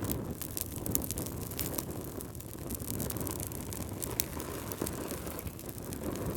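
Wood fire burning in a fireplace: a steady low rumble of flame with frequent small, sharp crackles and pops from the logs.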